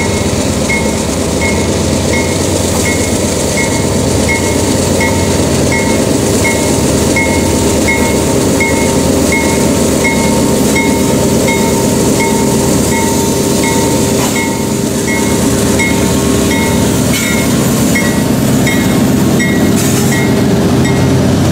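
Kansas City Southern diesel locomotive approaching and passing close by at the head of a grain train, its engine rumbling, while a railroad crossing bell dings steadily about twice a second. The locomotive gets a little louder near the end as it goes by.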